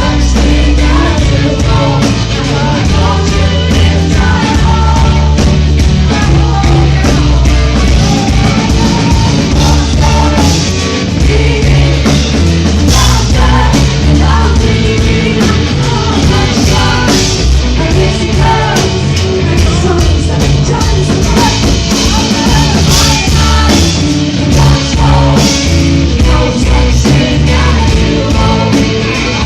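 Live rock band playing loudly, with drums, bass and a woman's voice singing over them.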